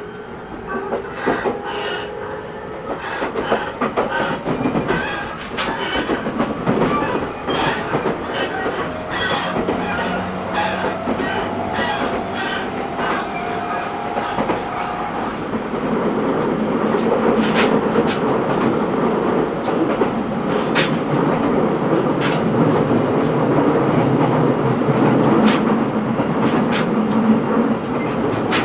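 Inside the cabin of an E127 series 0 electric multiple unit running: the motor whine rises slowly in pitch through roughly the first fifteen seconds as the train gathers speed, over the clickety-clack of wheels on rail joints. It then settles into a louder, steady running rumble, with joint clicks still coming at intervals.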